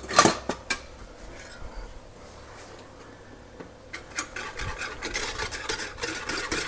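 A few sharp clinks of a whisk and pan, then from about four seconds in a whisk stirring quickly in a saucepan, a steady run of scraping ticks against the pan as pudding powder is mixed into milk.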